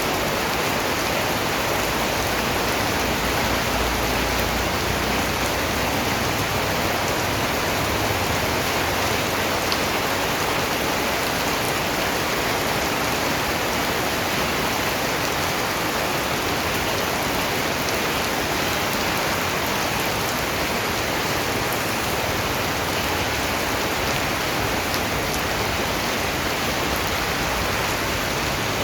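Steady rainfall, a dense even hiss of raindrops with faint scattered taps of individual drops.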